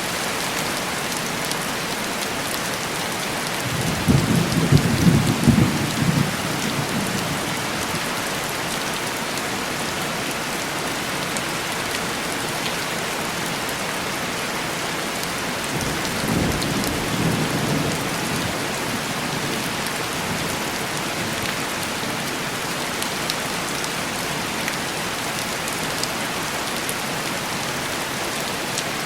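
Steady heavy rain on window glass, with two rolls of thunder: a louder one about four seconds in, lasting about two seconds, and a weaker one about sixteen seconds in.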